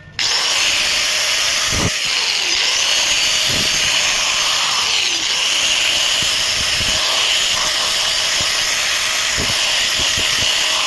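Powerbilt 600 power tool switched on with its newly replaced power switch and running steadily, an even rushing noise with a few low knocks. It starts suddenly at switch-on.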